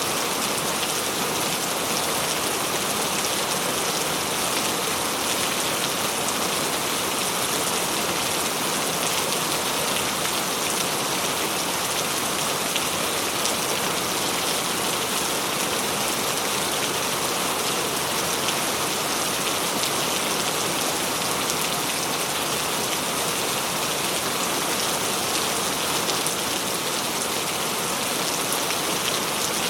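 Steady heavy rain falling and pattering on surfaces, a dense even hiss with no breaks or thunder.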